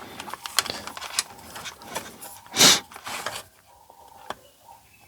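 Handling noise from working on a blood pressure monitor with meter test probes: scattered small clicks and taps with rustling. There is one short hissing burst about two and a half seconds in.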